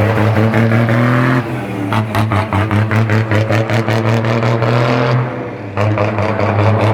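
Ford Cargo 2114 truck's button-operated singing exhaust sounding a loud, horn-like droning tone. The tone shifts about a second and a half in and pulses rapidly for a few seconds, dips briefly near six seconds, then comes back steady.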